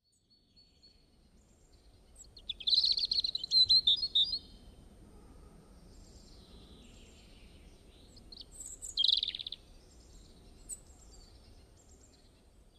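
Birds chirping and singing in short high calls, in a busy flurry about two and a half seconds in and another burst around nine seconds, over a faint low background hiss.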